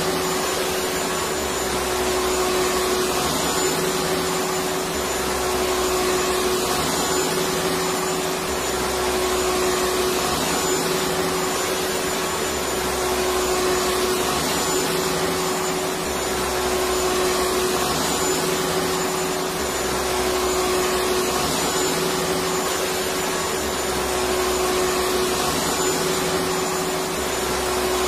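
Vacuum cleaner running continuously: a steady whooshing rush of air with a constant motor hum, swelling and easing slightly every few seconds.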